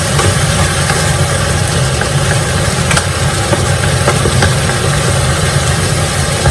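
Chicken pieces frying in hot oil in a pan, a steady sizzle over a low steady hum.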